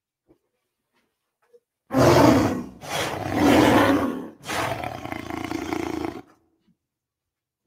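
Speculative reconstructed vocalization for Andrewsarchus, an extinct Eocene mammal: three harsh, snarling roars beginning about two seconds in, the last one longer with a steadier low tone.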